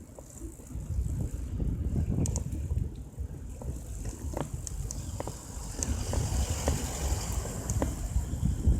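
Wind buffeting the microphone and road rumble from a moving mountain bike, with scattered light clicks and rattles.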